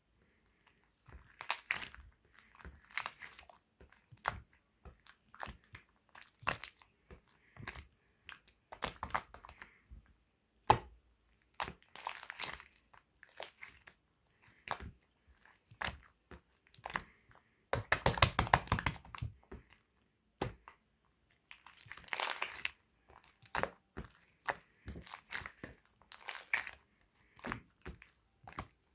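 Slime being squished and pressed by hand, giving irregular bursts of sticky crackles and pops. A denser, louder run of crackling comes about two-thirds of the way through.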